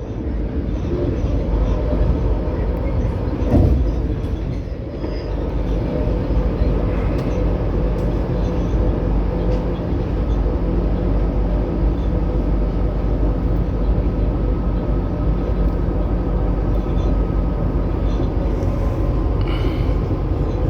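Passenger train running at speed, heard from inside the carriage: a steady low rumble of wheels on the rails with a faint motor hum and an occasional knock.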